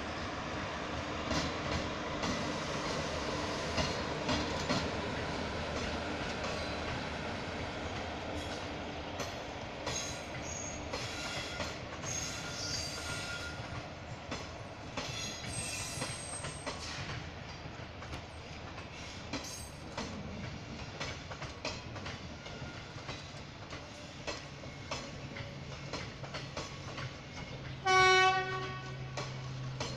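Indian Railways express train departing past on the next track behind a WAP-4 electric locomotive: a steady hum as the locomotive passes, then coach wheels clicking over rail joints with thin high squeals. Near the end a train horn sounds once for about a second, the loudest sound.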